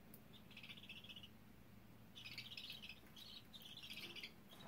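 Budgerigars chirping faintly in four short bursts of rapid, buzzy chatter.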